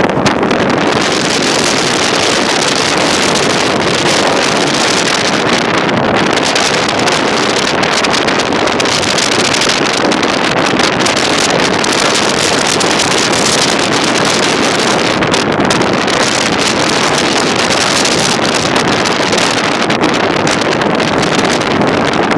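Steady rushing of wind buffeting the microphone, swelling and easing a little.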